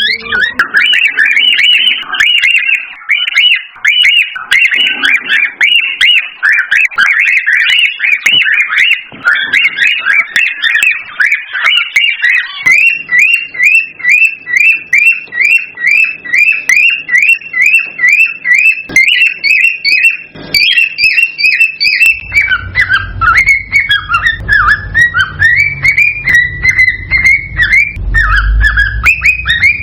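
Cockatiels chirping and whistling in a dense run of short high chirps. About a third of the way in, this settles into a very regular series of short falling whistled notes, about three a second. A low rumble joins about two-thirds of the way through.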